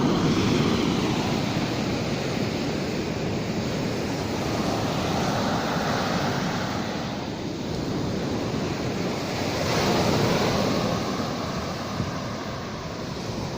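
Sea surf washing onto the beach in slow swells a few seconds apart, with wind noise on the microphone.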